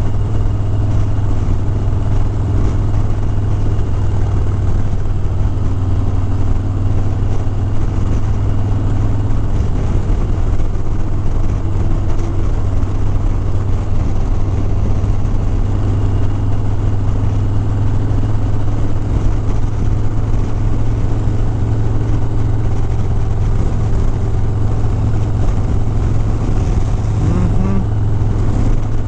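Harley-Davidson Sport Glide's Milwaukee-Eight V-twin running at a steady speed while the bike is ridden, a constant low engine drone with wind and road noise over it.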